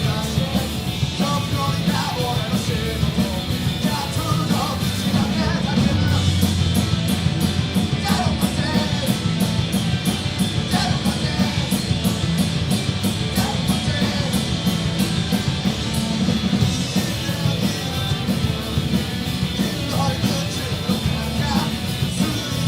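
A rock band playing live: distorted electric guitars, bass, drums and keyboard in a driving punk-rock groove, with a steady cymbal beat through the middle.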